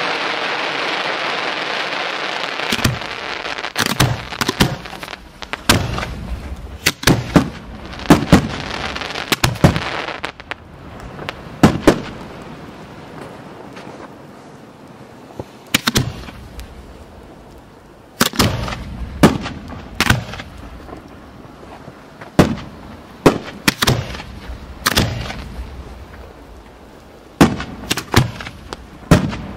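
A steady hiss for the first few seconds, then a string of sharp bangs from fireworks shells fired out of mortar tubes by their black-powder lift charges. The bangs come singly at times and in quick clusters of two or three at others, each with a short echo.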